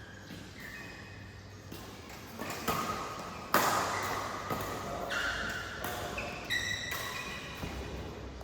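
Badminton rally: sharp racket strikes on the shuttlecock, the loudest about three and a half seconds in, with short high squeaks of court shoes on the floor between the hits.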